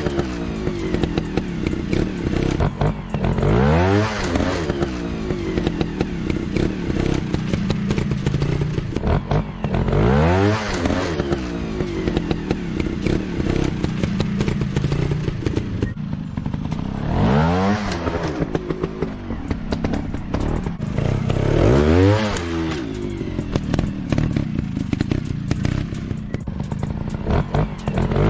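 Dirt bike engines running hard, revving up and dropping back in pitch several times, with clattering and scraping throughout.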